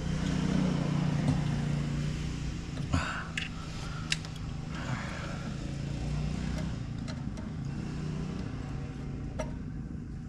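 12-volt air compressor motor running steadily, pumping up its tank, with a few sharp clicks about three to four seconds in.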